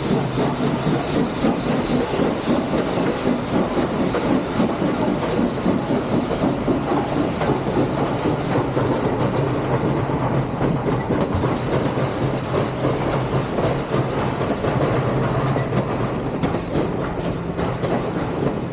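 Steam excursion train rolling by, its railroad cars' wheels clattering over the rail joints in a steady, dense clickety-clack.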